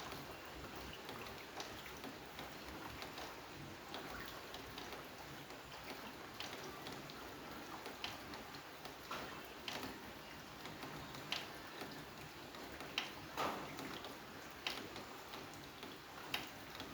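Rain falling steadily, with single drops tapping sharply and irregularly every second or so over the soft hiss.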